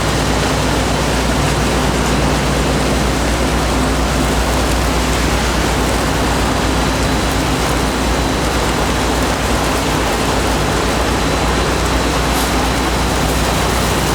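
Steady, loud running noise of snack-factory production machinery, an even rush with a low hum underneath and a faint high whine.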